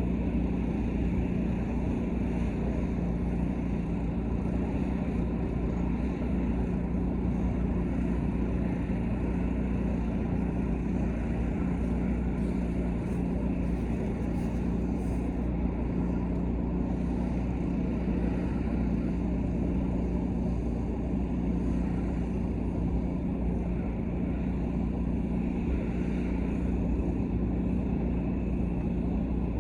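Pressure washer's engine running steadily at a constant pitch.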